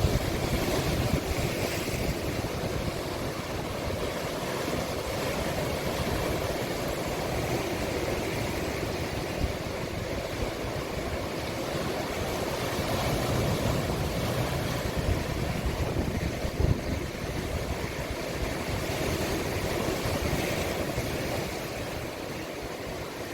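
Sea waves washing into a small cove: a continuous surf hiss that swells and eases over several seconds, with gusty wind rumbling on the microphone.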